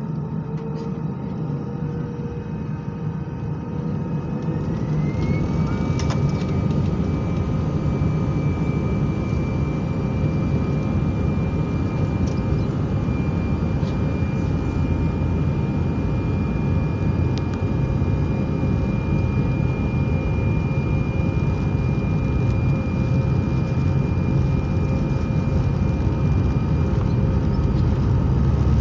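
Airbus A319 jet engines heard from inside the cabin, spooling up with a rising whine a few seconds in. They then hold a steady high whine over a loud rumble that grows slightly toward the end, as the engines run at high thrust, typical of the takeoff roll.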